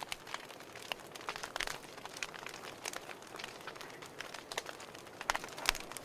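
Wood fire crackling: irregular sharp pops and snaps over a soft steady hiss, with a few louder pops.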